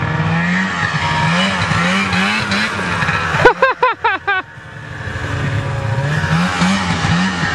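A vehicle engine revving under load through mud, its note rising and falling over and over. A few short, high whoops come in about halfway through, then the engine sound drops briefly and builds back up.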